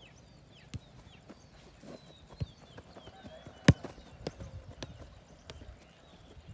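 A football being kicked and trapped in passing practice: a series of sharp, irregular thuds, roughly one a second, the loudest one about three and a half seconds in.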